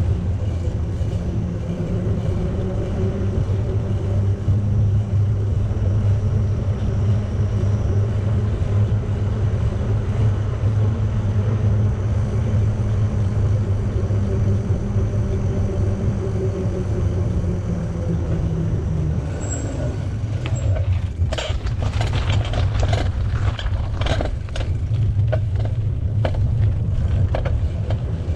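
Riding noise from a moving bicycle: a steady low rumble of wind on the microphone and tyre noise. About two-thirds of the way through, a brief high squeak comes, followed by a run of clicks and rattling knocks.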